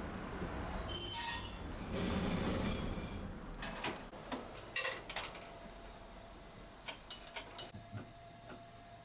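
Tosaden streetcar running and slowing, with a brief high squeal about a second in. The rumble then dies away, with a few sharp clicks and knocks as it comes to rest, leaving a quiet steady hum.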